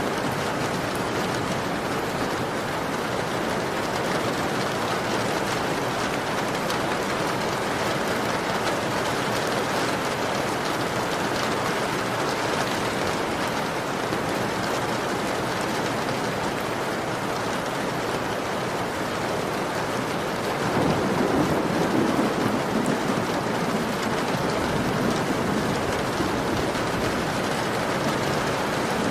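Heavy rain falling steadily on a window pane, with a low rumble swelling briefly about two-thirds of the way through.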